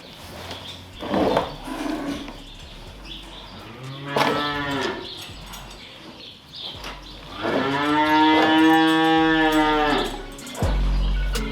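Cattle mooing: a short moo about four seconds in, then a long drawn-out moo lasting about two and a half seconds.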